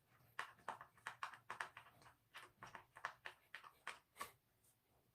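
Faint, irregular clicks and taps, a few a second, of small hard parts being handled and fitted while a washing machine stand is assembled by hand.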